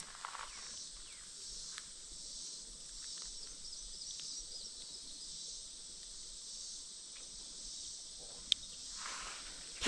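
Steady high-pitched insect drone with faint bird chirps, and a single sharp click near the end.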